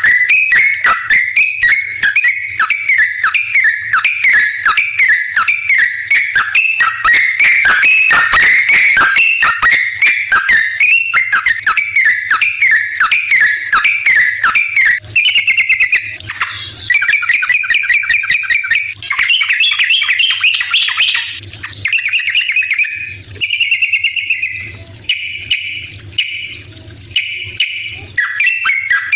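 Sooty-headed bulbul (trucukan) singing without a break, a fast run of short bubbly whistled notes that later splits into shorter phrases with brief pauses.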